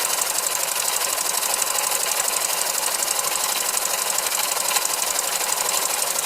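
Small model oscillating engine running on compressed air, driving a toy line shaft and its tin-toy models: a fast, even mechanical clatter that holds steady.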